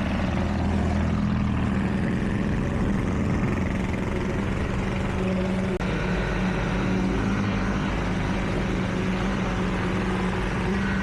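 Steady hum of a running motor with a strong, even tone, broken briefly by a short dropout a little after the middle.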